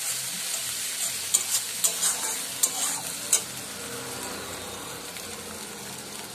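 Onions and ginger-garlic paste sizzling in hot mustard oil in a karahi. A metal spatula scrapes and clicks against the pan several times in the first half, then the frying goes on as a steady sizzle.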